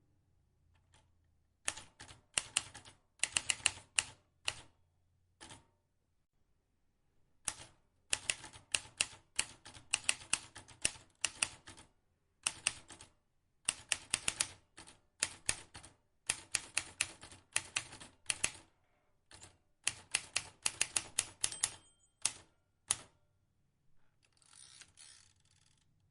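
Vintage manual typewriter keys struck in quick runs of sharp clicks, with short pauses between runs. A longer sweep of noise, lasting about a second and a half, comes near the end.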